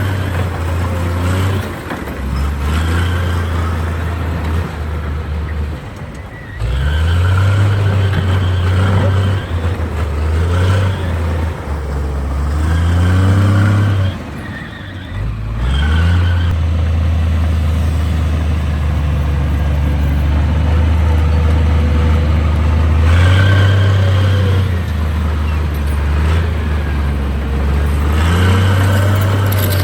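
Heavy earthmoving machine's diesel engine running under load, revving up and down repeatedly, with brief drops in level about six and fifteen seconds in.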